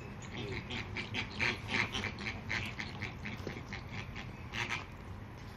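A group of birds calling in quick, short honking notes, several a second, overlapping one another.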